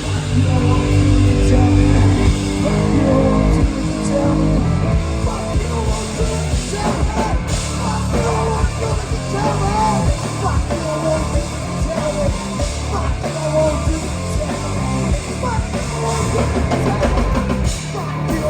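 Live rock band playing loud, with a full drum kit and amplified instruments, and singing over it.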